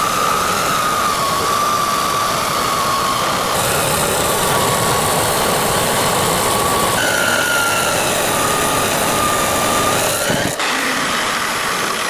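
A power grinder running with steel held to it, grinding a forged knife blade: a steady, loud noise with a high whine that wavers in pitch as the pressure on the blade changes. There is a brief break about ten and a half seconds in.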